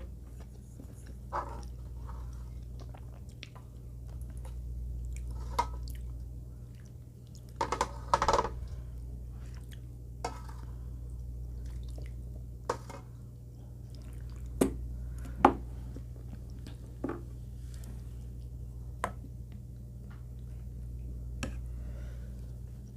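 A person eating a meal: chewing, with sharp clicks of utensils against dishes at irregular intervals and a brief clatter about eight seconds in, over a low steady hum.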